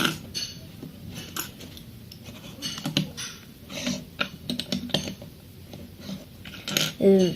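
Plastic Lego bricks clicking and rattling as they are handled and pressed together, in scattered short clicks.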